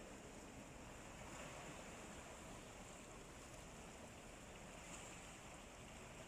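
Faint, steady wash of sea surf, an even hiss with no single wave standing out.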